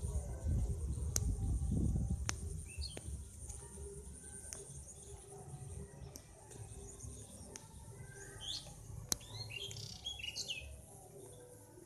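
Small birds chirping in short calls, a pair around two to three seconds in and a busier cluster near the end, over a faint steady high-pitched hum. A low, uneven rumble in the first two seconds is the loudest sound.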